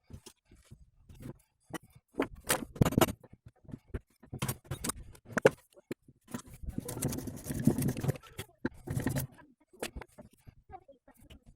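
Hand tools and metal parts clinking, knocking and scraping while work is done on a vehicle's propeller shaft, in irregular bursts with a busier spell of rubbing and scraping in the middle.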